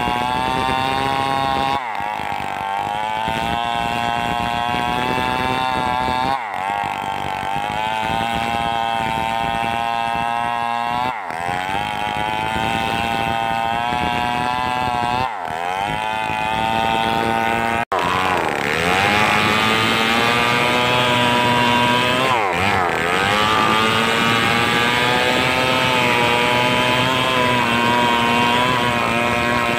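Stihl 038 two-stroke chainsaw running at high revs while cutting wood, its pitch sagging and recovering about every four to five seconds as the chain is loaded in the cut. The sound cuts out for an instant a little past halfway.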